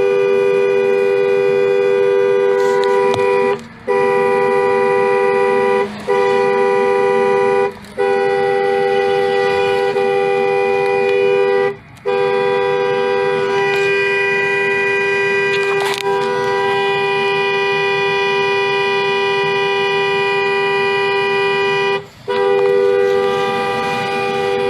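Car horn held down in long blasts, a steady two-note tone broken by about five brief gaps. This is sustained honking at a car stopped ahead and blocking the way.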